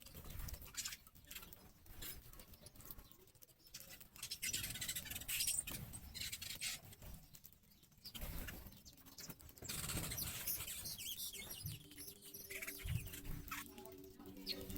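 Small birds chirping in short high-pitched notes, mixed with scratching and rustling. A low steady hum joins in near the end.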